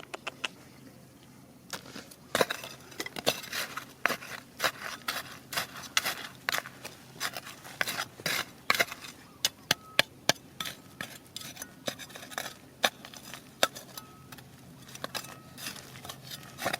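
Rocks and pebbles knocking and clacking against each other in quick, irregular sharp clicks, several a second, starting about two seconds in.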